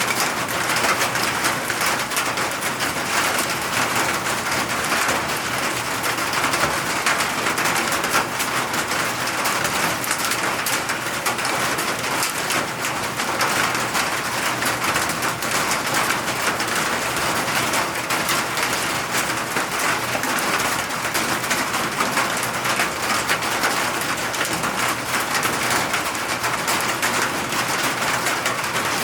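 Steady rain, an even hiss made of countless drops pattering on surfaces, holding at one level throughout.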